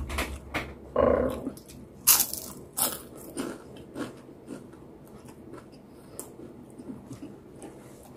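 A person chewing a mouthful of food close to the microphone, with loud mouth clicks and smacks about every half second to second. They grow fainter after about five seconds.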